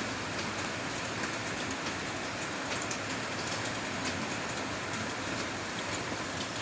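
Steady rain falling, with scattered sharp drops ticking on a hard surface.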